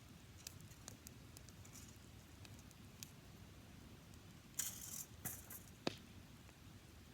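Dry-grass campfire crackling faintly, with scattered small pops, a brief louder rustling hiss just past the middle and one sharp crack about six seconds in.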